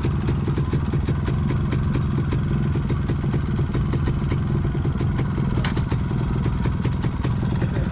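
A vehicle engine idling steadily close by, a low running note with a rapid, regular ticking over it.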